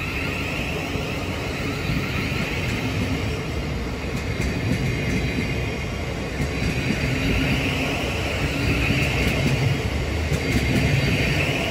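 Thameslink Class 700 electric train pulling out of the platform, running steadily and growing louder in the second half.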